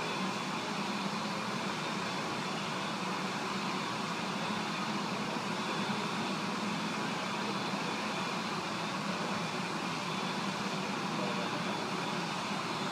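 Airport ramp noise: a steady mechanical drone with a faint high whine, unchanging throughout.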